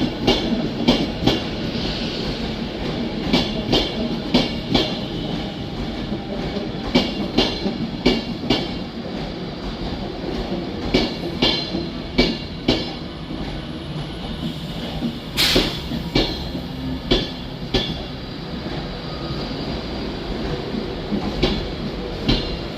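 Class 390 Pendolino electric train running through the station with a steady rumble, its wheels clicking over the rail joints, often in pairs. There is a short hiss about fifteen seconds in.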